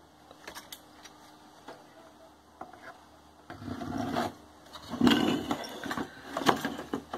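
A TV circuit board being handled and turned over on a workbench: faint scattered clicks, then from about halfway in a run of rustling, knocks and rattles.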